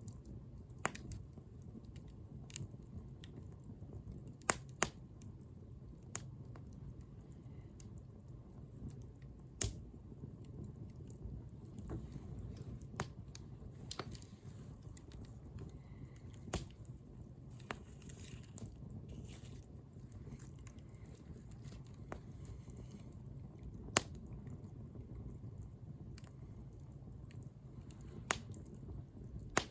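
Wood bonfire burning: a steady low rumble of flame with irregular sharp crackles and pops from the burning wood, about a dozen of them spread unevenly through the stretch.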